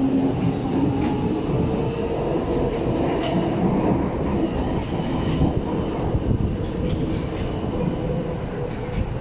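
Singapore MRT train running along an elevated track close by: a steady rumble of wheels on rail with a faint hum and a few sharp clicks.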